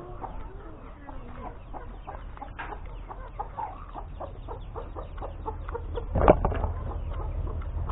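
Chickens clucking, with scattered short clicks and one louder sudden sound about six seconds in.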